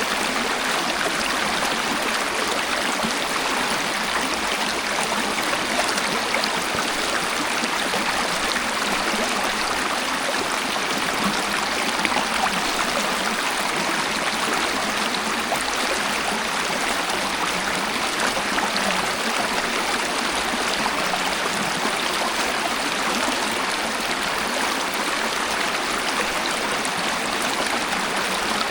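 Waterfall: water falling and splashing in a steady, unbroken stream, with little low rumble.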